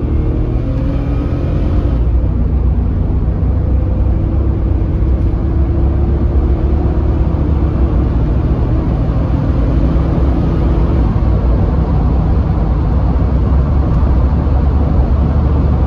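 Range Rover P38's petrol V8 at full throttle, heard from inside the cabin over heavy road rumble. The engine note climbs, drops about two seconds in as the four-speed ZF automatic shifts up, then climbs slowly again as the car accelerates.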